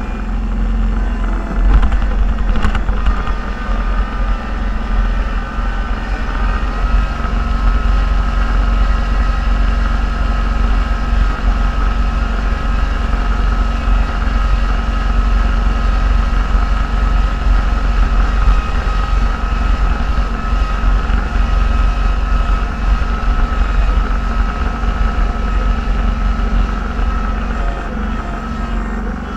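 Snowplow vehicle's engine running steadily under load, heard from inside the cab, with a steady high whine that comes in about six seconds in.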